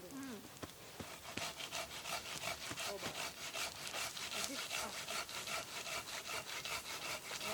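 Folding hand saw (Silky BigBoy) cutting through a log in quick, even back-and-forth strokes, starting about a second in, about three to four strokes a second.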